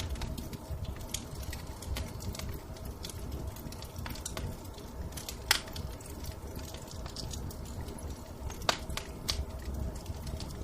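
Fireplace wood fire crackling over a low steady rumble, with irregular sharp pops; the loudest come about five and a half seconds in and again near nine seconds.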